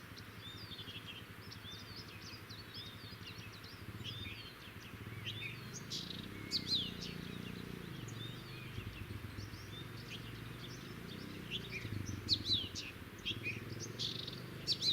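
Several small songbirds chirping and twittering in short, quick rising and falling calls, busier in the second half, over a low steady rumble.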